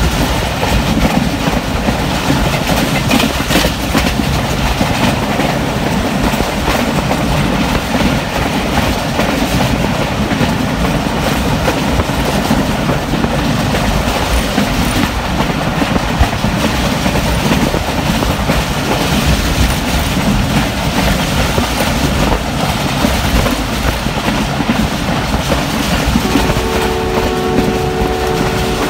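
Passenger train running fast, heard from aboard: a loud, steady rumble of wheels on the rails and rushing air. A steady tone joins near the end.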